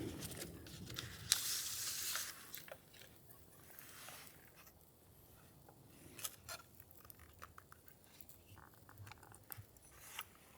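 Close, small handling sounds: a rustling, tearing hiss lasting about a second, beginning a little over a second in, then scattered light clicks and taps.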